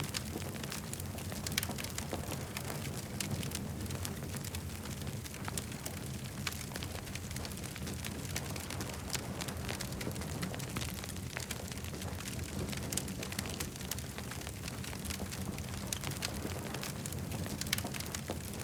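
Wood campfire crackling: frequent irregular snaps and pops over a steady low rush.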